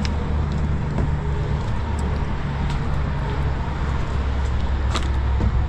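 Vehicle engine idling, a steady low rumble, with a sharp click about five seconds in.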